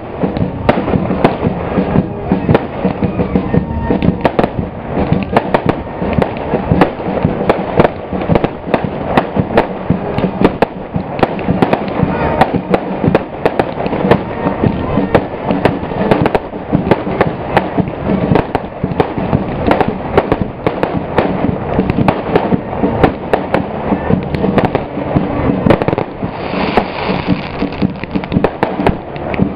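Large bonfire burning, with dense, loud crackling and popping that does not let up.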